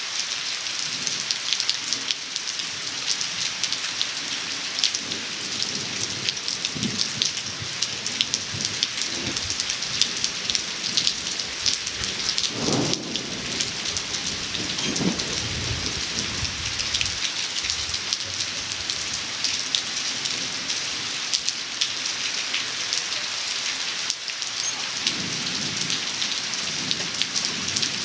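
Steady rain falling onto a cement-plastered surface: a continuous hiss of splashing drops with many separate drop ticks. Low rumbles come about halfway through and again near the end.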